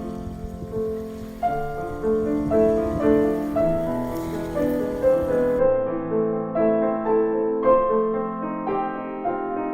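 Background piano music, a melody of single notes and chords. A faint hiss under the first half stops suddenly about five and a half seconds in.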